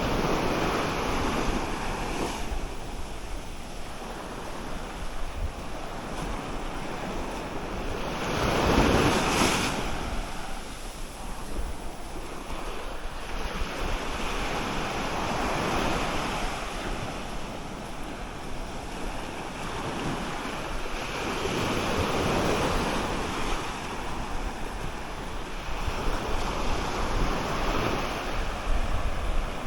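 Surf breaking and washing up on a beach, swelling and fading every few seconds, loudest about a third of the way in. Wind rumbles on the microphone throughout.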